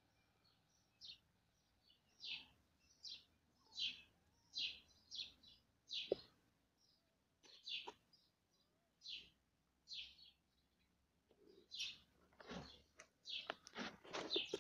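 A small bird chirping over and over, short high-pitched chirps about once or twice a second. Near the end the calls come faster and louder.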